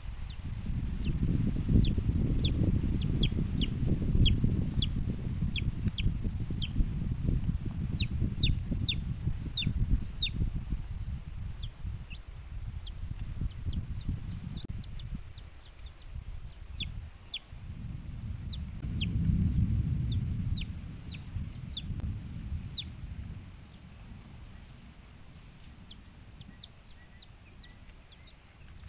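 Small birds peeping: short, high chirps that fall in pitch, a few a second, thinning out and stopping a few seconds before the end. Under them is a low rumbling noise, loudest through the first half and again about two-thirds of the way through.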